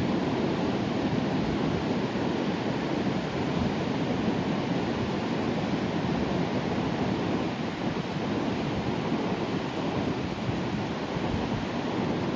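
Sea surf breaking and washing ashore in a steady, continuous rush of water, easing off a little a few seconds before the end.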